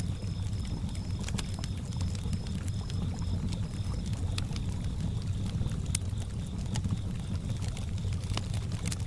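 Campfire crackling with scattered sharp pops over a low, steady water sound by the lake, with crickets chirping: one in a pulsed rhythm of about three chirps a second that stops about four seconds in, another a steady high trill throughout.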